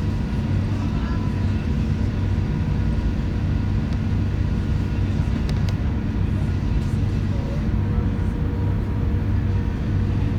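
Steady low rumble and hum of an Airbus A380's Rolls-Royce Trent 900 engines and cabin systems at taxi power, heard from inside the passenger cabin, with a few constant tones over the rumble.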